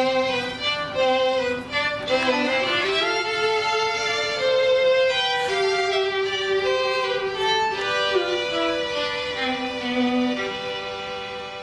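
Music led by a bowed violin playing a slow melody of held, gliding notes, growing quieter near the end as it fades out.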